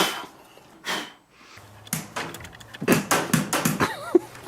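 Microwave oven shut and started: two sharp knocks, then a low steady hum begins about a second and a half in, with irregular clicks and pops over it.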